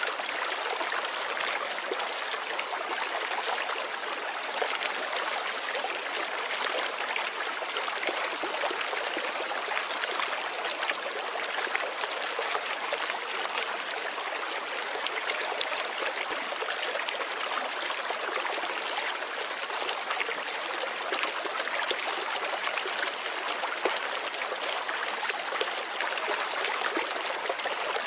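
Steady light rain: an even hiss of many small drops falling, with no change in strength.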